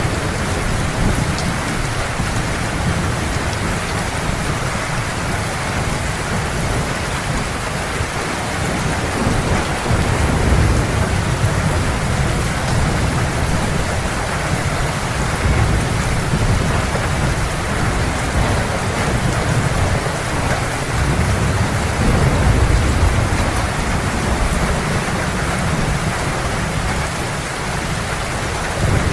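Heavy rain pouring steadily in a thunderstorm, with low rolling thunder rumbling underneath, strongest from about ten seconds in until near the end.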